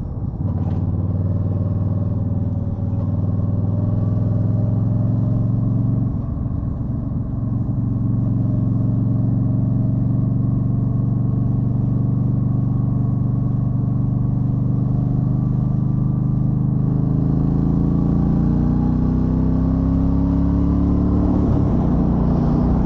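2013 Yamaha Stryker's V-twin engine running under way. The engine note drops briefly about six seconds in, climbs in pitch over the last several seconds, then dips again near the end.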